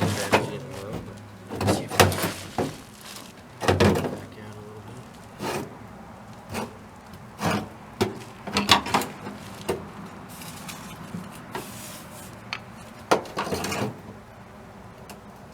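Irregular knocks and clunks of metal being worked and handled: about fifteen sharp hits at uneven spacing, some in quick pairs.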